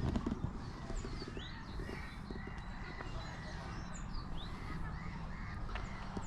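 Several wild birds calling, a mix of short chirps and whistled gliding notes, with a low wind rumble on the microphone underneath.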